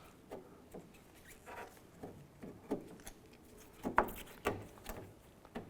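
Plastic door handle and its latch unit scraping and clicking against the sheet-metal door shell as they are fed through the handle opening: scattered light scratches and taps, with a couple of sharper knocks about four seconds in.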